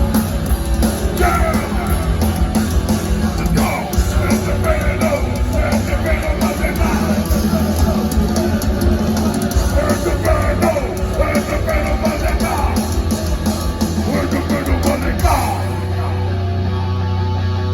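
Heavy metal band playing live: distorted guitars, fast drumming and shouted vocals. About fifteen seconds in the drums and vocals stop, leaving a held guitar chord ringing.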